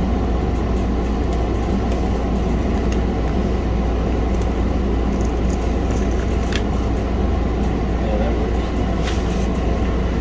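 A steady low rumbling noise, like a fan or running machinery, with a few faint light clicks over it.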